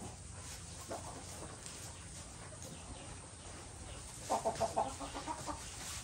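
Chicken clucking: one faint cluck about a second in, then a quick run of clucks about four seconds in.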